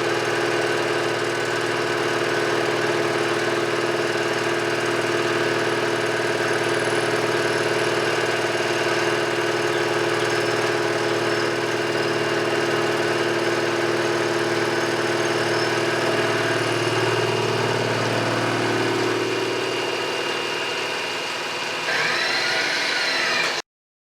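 Machine-tool motor and spindle running at a steady speed. About three-quarters through, a tone glides up and the sound shifts, then it cuts off abruptly just before the end.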